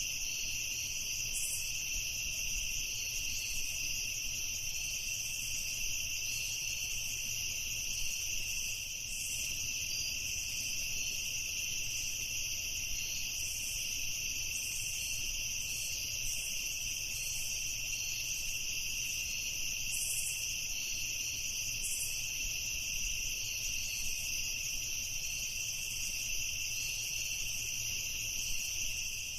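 A chorus of crickets chirping, a steady high-pitched trill that never lets up.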